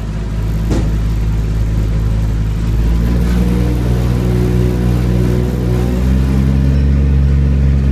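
A boat engine running with a low, steady drone, its pitch stepping up about three seconds in and shifting again about six seconds in. A single sharp click sounds under a second in.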